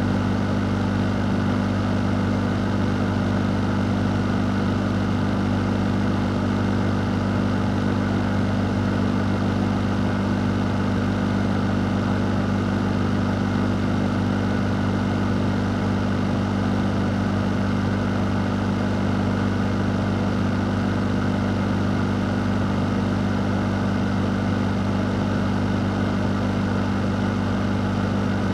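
A running fan, as in an electric fan or air-conditioning unit, giving a steady low hum under an even rush of moving air, unchanging throughout.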